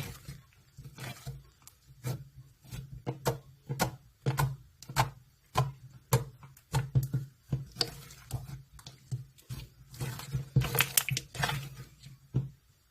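Slime being squeezed and stretched by hand, giving irregular wet pops and clicks a few times a second, busiest near the end.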